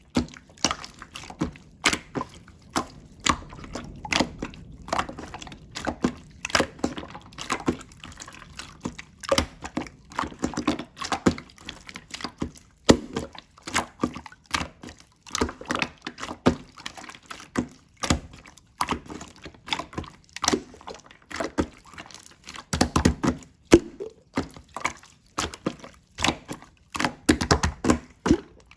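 Slime being squeezed and poked by hand: a rapid, irregular run of sticky, wet clicks and pops, with thicker squelches now and then.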